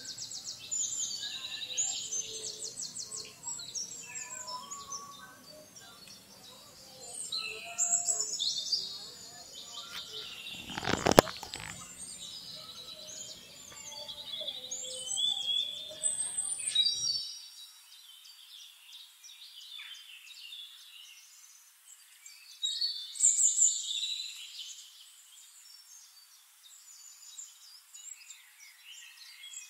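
Small birds chirping and trilling in repeated bursts every several seconds, with one sharp click about eleven seconds in.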